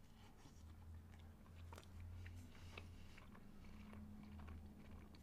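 A person biting into and chewing a Philly steak sandwich on a soft, untoasted sub bun: faint mouth sounds with small scattered clicks.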